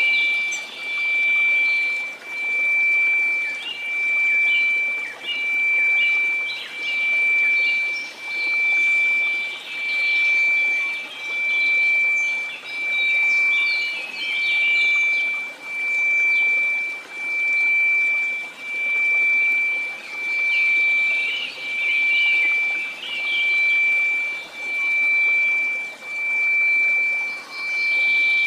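A pure 2334 Hz sine tone that swells and fades about once every one and a half seconds, over faint hiss, with birds chirping behind it.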